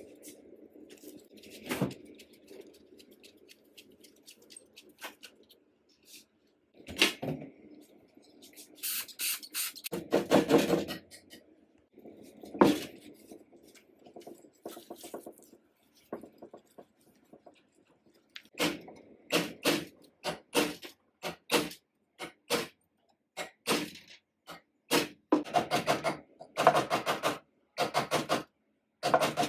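Hand work on an old sewing machine's metal parts: irregular clicks, taps and short scraping sounds, with a dense run of sharp clicks in the last third.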